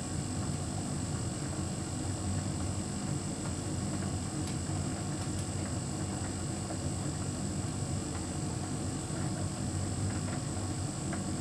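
Hotpoint heat pump tumble dryer running: a steady hum with a faint high whine and a few light ticks.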